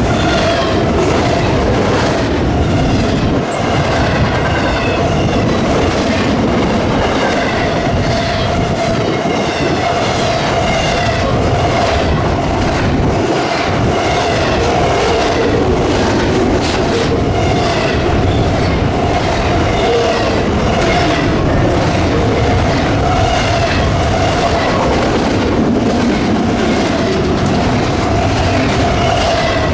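Freight train cars rolling past, with a steady rumble of wheels on rail, repeated clicks over rail joints and a wavering high squeal from the wheels.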